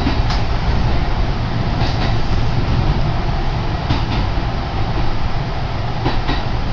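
Kintetsu Yunoyama Line electric train running, heard from inside the passenger car: a steady low rumble of wheels and running gear, with light clicks about every two seconds.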